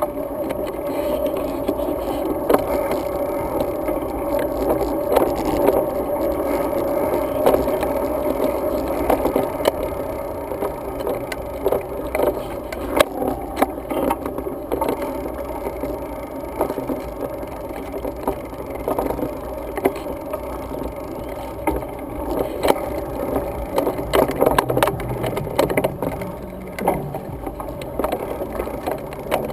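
Road bike ridden at speed, a steady rumble of road and wind with frequent rattles and knocks from the bike.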